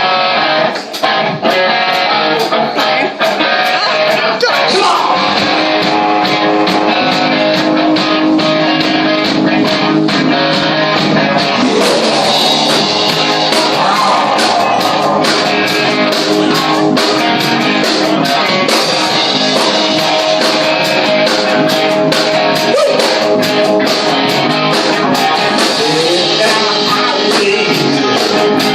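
Live rock band playing with electric guitar and drums, a voice singing over it, loud and steady throughout.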